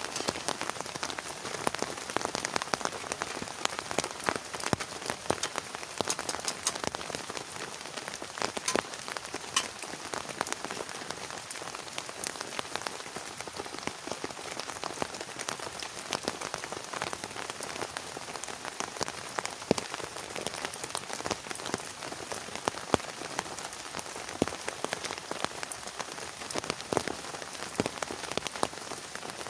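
Steady heavy rain, with many sharp individual drops hitting a surface close to the microphone.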